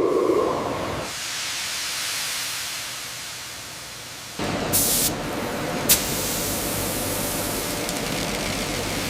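Steady hissing machinery noise. About four and a half seconds in it changes abruptly to a different hiss with a low steady hum, followed by a short sharp burst of hiss and then a click.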